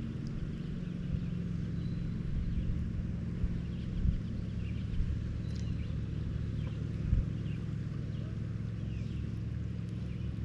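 Small engine of yard equipment running steadily, with a few faint high chirps over it.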